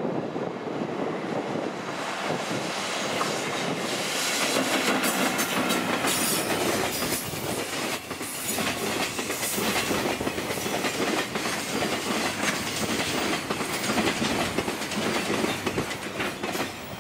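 Container freight train hauled by an EF64 electric locomotive rolling past, a steady rumble with the wheels of the container flat wagons clicking over the rail joints.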